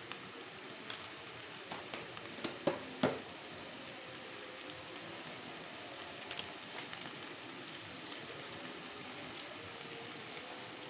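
Bok choy and sauce sizzling in an aluminium wok over a high gas flame: a steady hiss with a few sharp pops and crackles about two to three seconds in.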